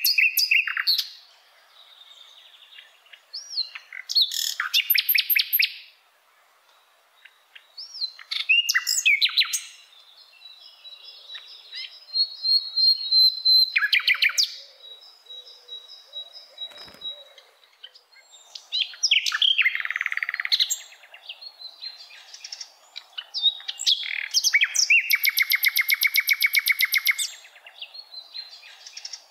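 Small birds chirping and singing in repeated bursts of varied calls: short gliding whistles and rapid trills, with one long fast trill near the end.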